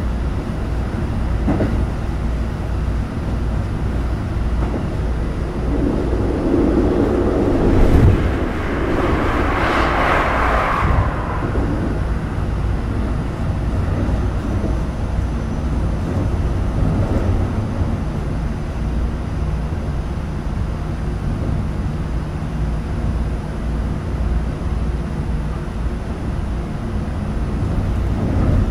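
Keikyu New 1000 series train with a Siemens GTO inverter, heard from inside the car while running between stations: steady wheel-on-rail rumble with a low motor hum. A louder rushing swell builds and fades around a third of the way through.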